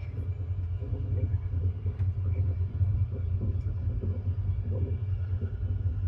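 Steady low rumble of a moving sleeper train, heard from inside the carriage, with faint rattles over it.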